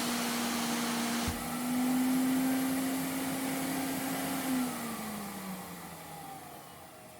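Vacuum cleaner motor running with a steady whine and a short click about a second in. From about four and a half seconds the whine drops in pitch and fades as the motor spins down after being switched off.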